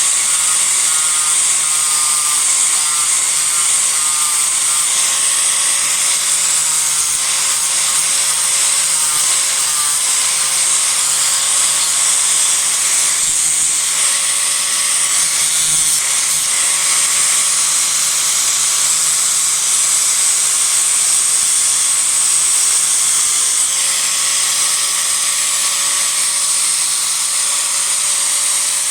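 Disc grinder running continuously, grinding into a block of Japanese cedar (sugi) to rough out a carving: a steady high whine over a strong hiss, dipping slightly in pitch now and then as the disc bites.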